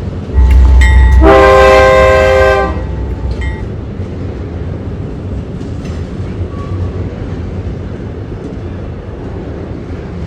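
A freight locomotive's horn sounds one blast about a second in, lasting just over a second. It is followed by the steady rumble of the train.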